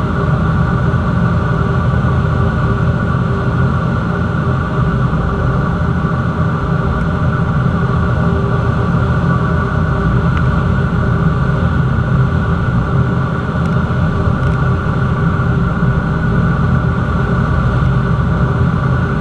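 Cessna 172's piston engine and propeller running at a steady, unchanging power: a loud, even drone with several steady tones.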